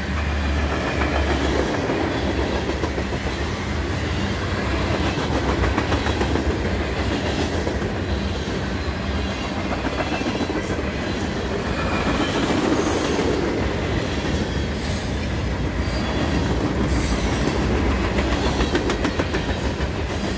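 Freight cars rolling past close by: a steady rumble and clatter of steel wheels over the rails as covered hoppers, boxcars and tank cars go by. Brief high wheel squeals come now and then in the second half.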